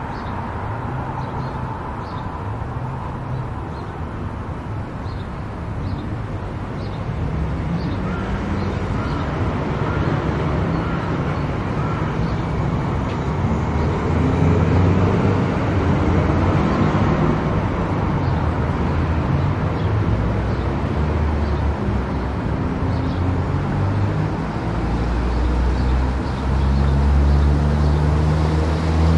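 Car driving on a road: continuous engine and tyre noise, low and steady, growing louder about halfway through and again near the end.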